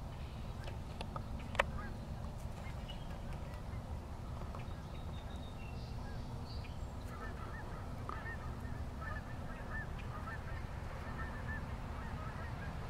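Birds calling: a quick series of short, repeated calls starting about seven seconds in, over a steady low rumble, with one sharp click about one and a half seconds in.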